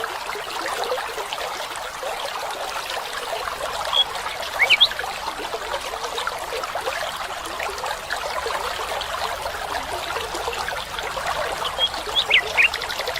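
Small stream trickling and splashing steadily. Short, rising bird chirps come through about four seconds in and again near the end.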